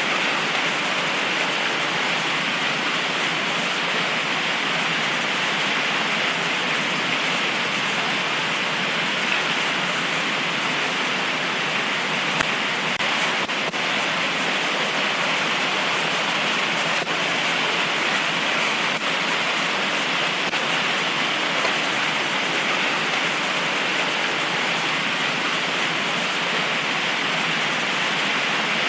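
Heavy tropical rain pouring down steadily, a continuous even hiss. A few faint ticks stand out in the middle of it.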